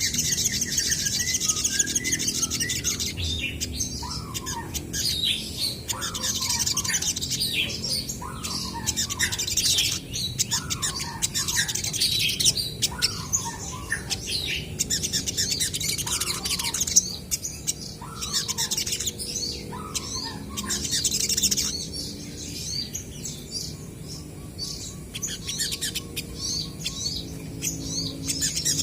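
Olive-backed sunbirds calling back and forth in rapid high-pitched chirps and trills. Through the first two-thirds, a lower falling note repeats about every two seconds.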